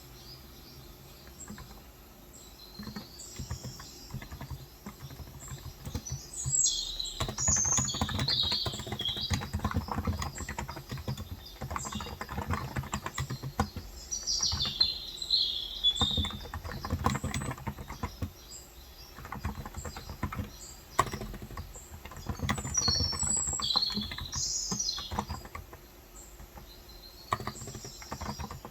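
Typing on a Cox Endeavour tenkeyless keyboard with contactless 35 g switches, in fast runs of keystrokes that start a few seconds in and fall off near the end. Birds chirp outside in several short bursts over the typing.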